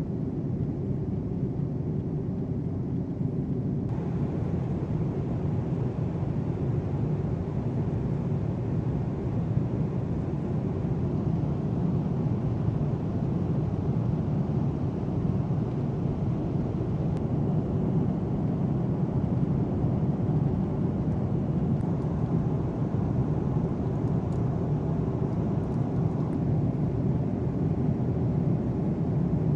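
Steady low rumble of jet aircraft in flight, unbroken and even in level.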